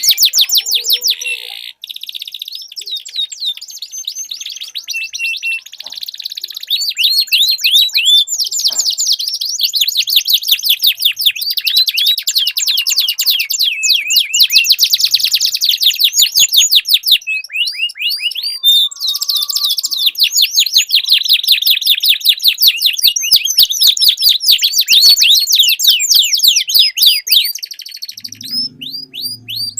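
Domestic canary singing long, fast rolling trills of rapidly repeated high notes, with only short breaks between runs.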